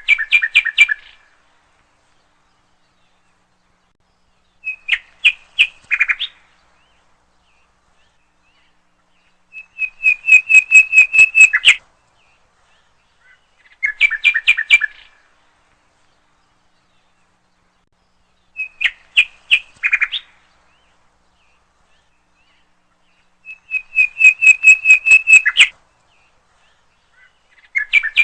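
A songbird's call: short phrases of rapid repeated chirping notes, each phrase a second or two long, separated by a few seconds of silence. The same pattern of phrases recurs about every 14 seconds, as from a looped recording.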